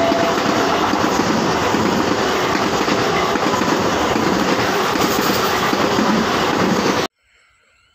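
Eastern Railway EMU suburban train running past, a steady loud rolling clatter of its wheels on the rails, with the last of a two-tone horn note dying away just as it begins. The train noise cuts off suddenly about seven seconds in.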